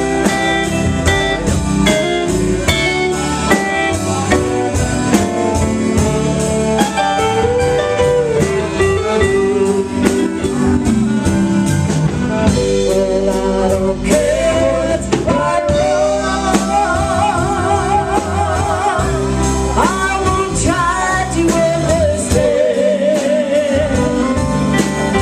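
Live band playing an instrumental break: a saxophone solo with wide vibrato on its held notes, over electric bass, guitar and a steady drum beat.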